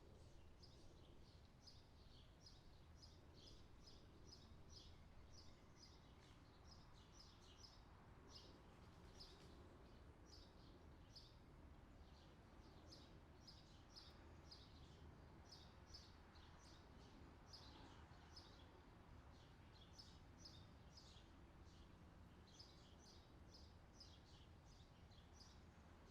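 Faint forest birdsong: many short, high chirps, several a second, over a low background rumble.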